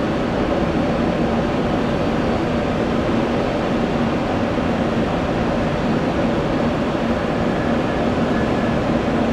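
Steady drone of jet aircraft engines running at the airfield, a constant hum that holds one pitch throughout.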